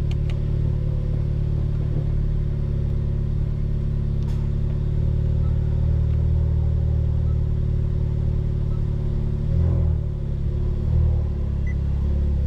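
Honda Civic Type R's turbocharged K20 four-cylinder running through a new Injen stainless exhaust, heard from inside the cabin as a steady low drone. The engine note rises briefly twice near the end.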